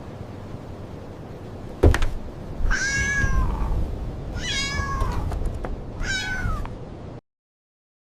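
A single sharp knock, then a cat meowing three times, each call under a second long, over a low steady background noise that cuts off suddenly near the end.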